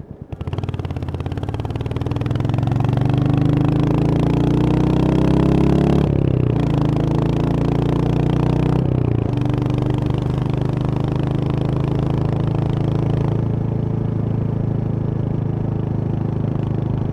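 Royal Enfield Hunter 350's 349 cc single-cylinder engine pulling hard as the motorcycle accelerates, its pitch climbing, dropping at an upshift about six seconds in, climbing again and shifting again near nine seconds. It then runs at a steady speed, the throttle easing slightly near the end.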